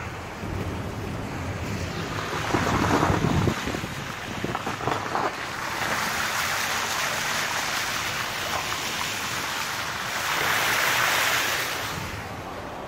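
Floodwater rushing and splashing as a vehicle moves through a waterlogged road, swelling twice.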